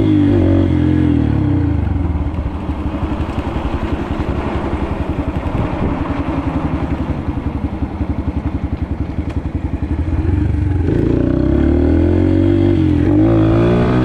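Yamaha TT-R125 pit bike's single-cylinder four-stroke engine under throttle, its pitch rising and falling. About a second in it drops to low-speed running with a rapid, even beat. At about ten and a half seconds it revs up again, rising and falling.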